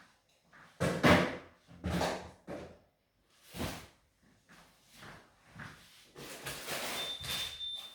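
Drawers and cupboard doors being opened and shut several times in quick succession, each a short scrape or bump. A brief, steady high tone sounds near the end.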